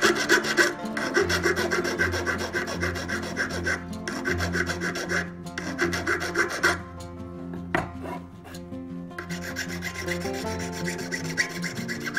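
Hand file rasping across the edge of a silver ring in quick, even back-and-forth strokes. The strokes ease off for about two seconds after the middle, then start again.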